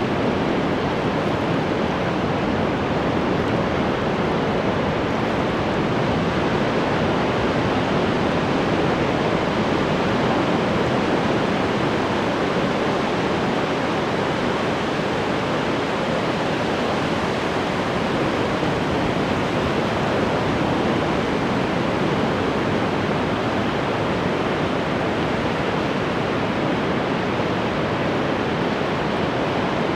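Continuous ocean surf: waves breaking and washing in a steady, even rush of noise with no distinct individual crashes.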